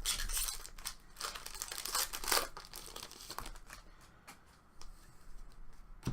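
Trading card pack wrapper being torn open and crinkled, with cards handled. The rustling is loudest in the first couple of seconds, then quieter, with a few light clicks near the end.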